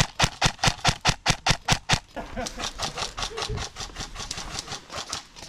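Running footsteps, a fast, even beat of about five steps a second, loud at first and fainter after about two seconds.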